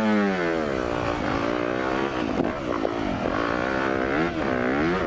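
2015 Yamaha YZ250F four-stroke single-cylinder dirt bike engine revving while being ridden, its pitch rising and falling several times as the throttle is opened and closed.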